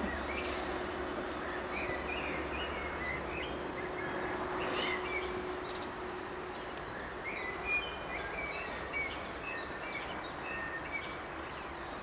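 Small songbirds chirping in short, repeated calls, more often in the second half, over a steady outdoor background noise. A faint steady hum stops about halfway through.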